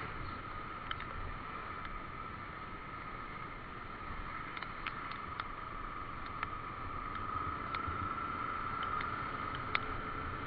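Steady motorcycle riding noise, engine and wind on the move, with scattered sharp ticks.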